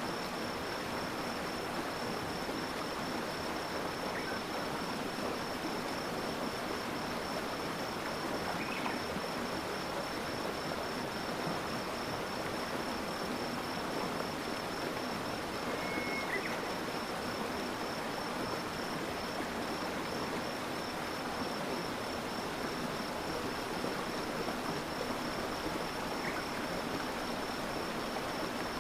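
Stream water flowing steadily, with a continuous high-pitched insect trill over it and a few faint short chirps.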